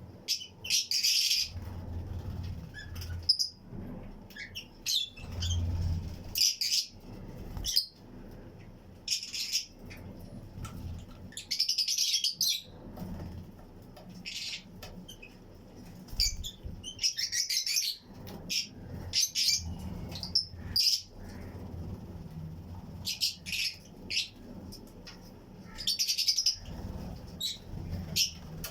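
A colony of Fischer's and lutino lovebirds chirping in a flight cage: short, shrill, irregular bursts of calls every second or two, with soft low thumps in between.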